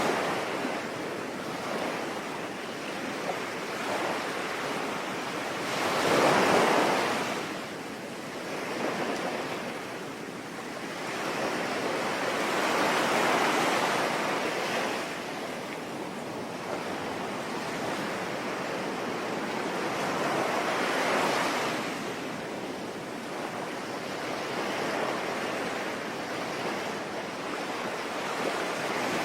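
Ocean waves washing onto a shore in slow surges every seven or eight seconds, the loudest about six seconds in, over a steady hiss of rain.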